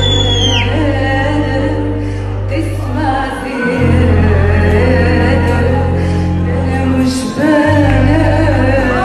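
A woman singing a melodic line over instrumental accompaniment with deep held bass notes, which change twice.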